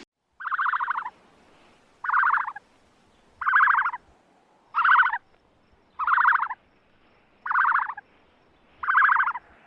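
An animal calling seven times at an even pace, about a second and a half apart; each call is a short, rapid rattling call.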